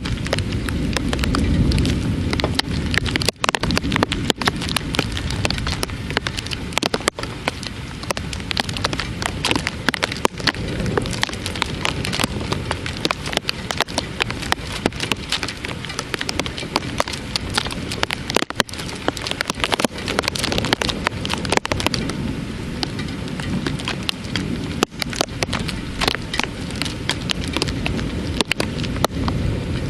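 Heavy rain falling during a thunderstorm, with many sharp drop hits close by. A low rumble of thunder sounds during the first few seconds.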